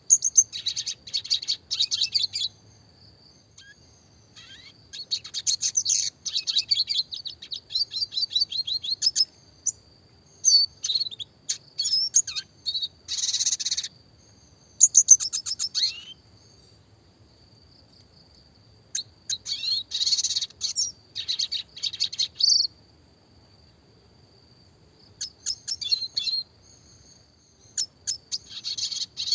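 Red siskin (Spinus cucullatus) singing: high, fast twittering phrases with rapid rolling trills and sharp chirps, delivered in bursts of a few seconds with short pauses between them.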